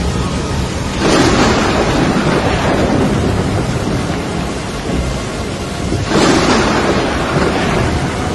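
Thunderstorm: steady rain and storm noise, with two sudden loud claps of thunder, about a second in and about six seconds in, each rolling away over a few seconds.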